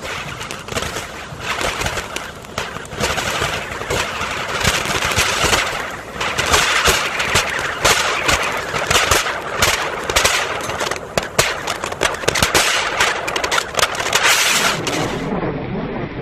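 Kulfi firecrackers burning with a hiss of sparks and a dense, rapid crackle of sharp pops, building over the first few seconds and cutting off about fifteen seconds in.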